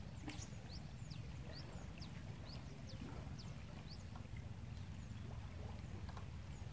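Outdoor ambience of birds chirping: many short, high chirps falling in pitch, about two a second, over a steady low rumble and a thin steady high-pitched tone.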